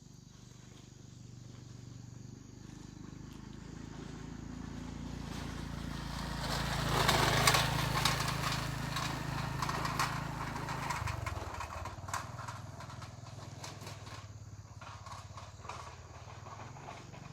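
A motor running with a steady low hum that grows louder to a peak about seven or eight seconds in, then fades away.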